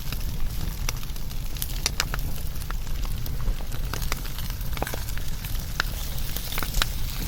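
Wood fire burning: irregular sharp crackles and pops, several a second, over a steady low rumble of flames.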